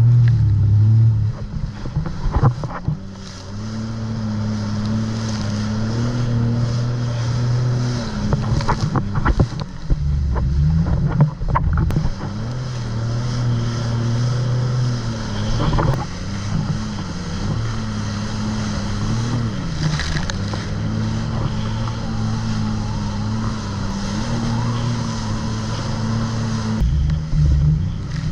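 Jet ski engine running under way, its pitch rising and falling with the throttle, over a rush of wind and water noise.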